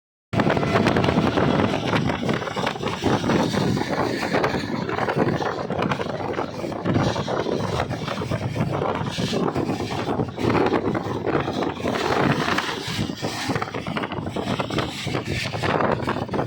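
Train running, with a continuous irregular rumble and rattle and wind buffeting the microphone.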